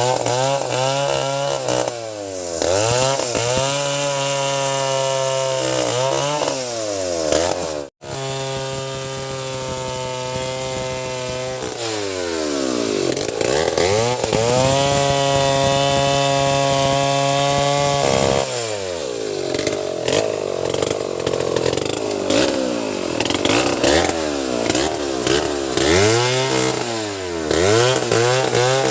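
Two-stroke chainsaw revving repeatedly from idle up to full throttle, holding high for several seconds at a time as it cuts into wood, then dropping back. The sound breaks off abruptly for an instant about eight seconds in.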